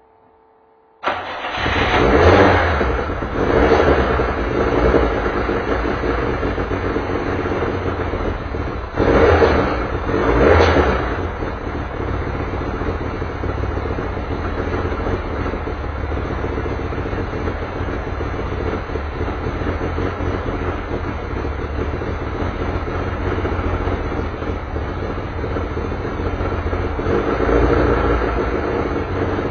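Touring race car engine started, catching abruptly about a second in and then idling, with throttle blips raising the revs a few times, twice early on and once near the end.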